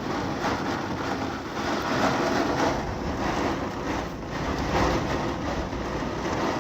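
Heavy rain in a summer storm, a dense rushing noise that swells and eases.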